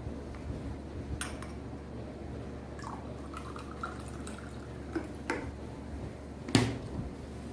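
Liquid being poured and dripping into small glass containers, with a few light clinks and knocks, the sharpest near the end.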